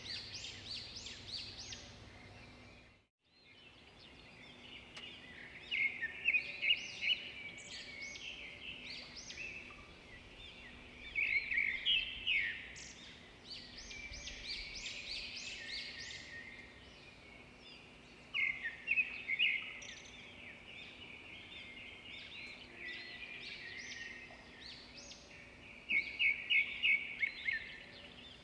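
Edible-nest swiftlets twittering: bursts of rapid, high chirps that come in clusters, over a faint steady hum. The sound cuts out completely for a moment about three seconds in.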